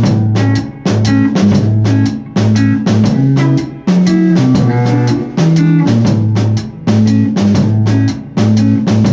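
Rock jam with guitar and drum kit playing a steady, repeating riff, the drums hitting on a regular beat.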